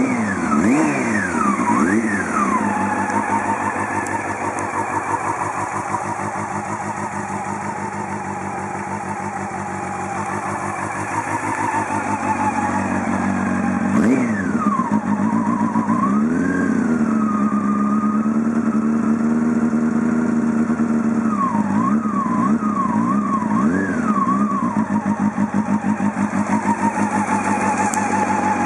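Honda CB400 Super Four inline-four engine running through a Yoshimura titanium slip-on muffler. It idles steadily and is revved in short throttle blips: a couple at the start, one sharp one about halfway, a stretch held at higher revs, then a quick run of blips.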